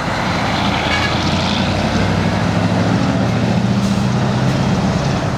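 Large truck engine running with a steady low drone as a truck pulls out.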